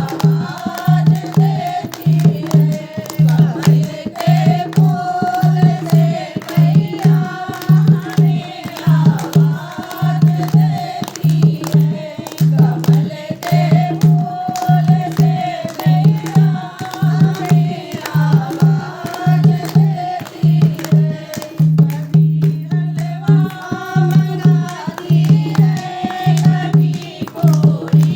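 Devotional song to the Mother goddess: a voice singing a melody over a steady, evenly repeating low drum beat.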